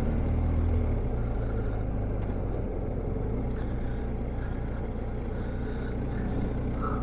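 Motorcycle engine running steadily while riding, its low tone shifting slightly about a second in.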